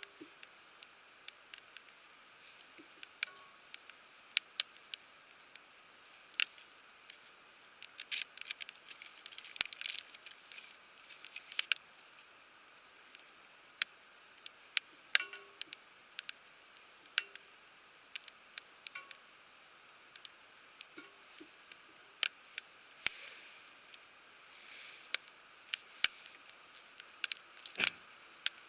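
Wood fire crackling, with irregular sharp pops and snaps from the burning firewood.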